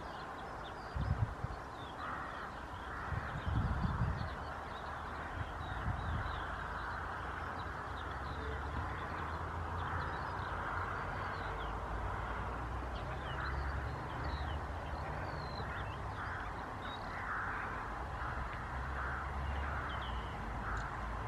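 Distant birds calling over a steady low rumble, with repeated short harsh calls that come more often in the second half, and faint high chirps throughout. A few soft thumps come in the first four seconds.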